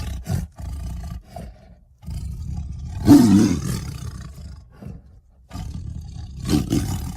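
Lion roars and growls used as a big-cat character's sound effects. A short growl comes near the start. A long roar starts about two seconds in, is loudest a second later and then fades. Another roar begins about five and a half seconds in.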